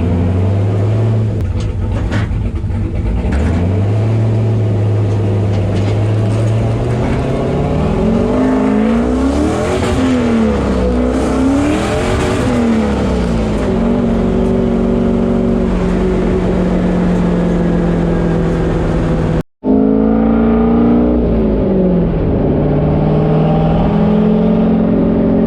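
Car engine running and revving, its pitch rising and falling repeatedly through the middle, with a brief dropout about three-quarters through before the engine sound carries on.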